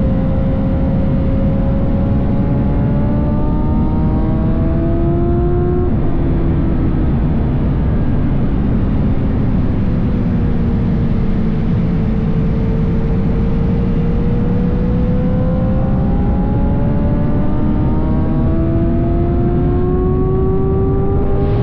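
BMW S1000RR's inline-four engine under way: its pitch climbs steadily for about six seconds, steps down at a gear change, sinks slowly for several seconds, then climbs again toward the end. A heavy wind rumble on the microphone runs underneath.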